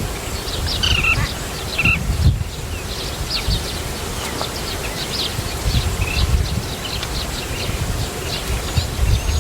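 Small birds chirping: many short, high chirps in quick succession, over a low rumble.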